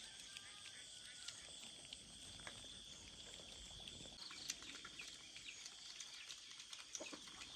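Faint rural outdoor ambience: a steady high hiss with scattered light ticks and one sharper click about halfway through.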